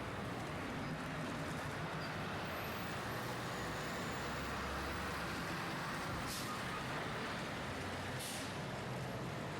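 City street traffic: a steady wash of road noise with the low engine rumble of a heavy vehicle such as a truck or bus, strongest around the middle. Two short hisses come about six and eight seconds in.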